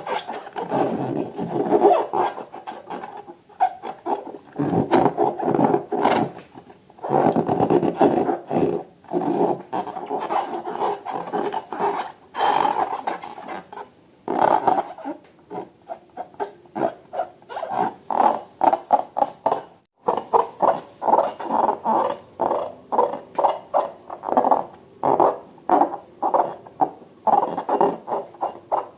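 Air squealing out through a stretched balloon neck: a raspy, sputtering noise in many short bursts, stuttering faster in the second half.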